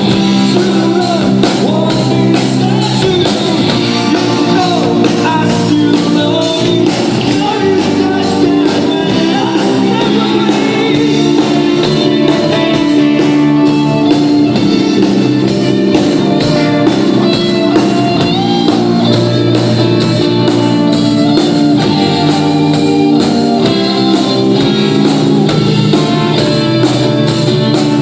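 Rock band playing: a steady drum beat under guitar and sung vocals.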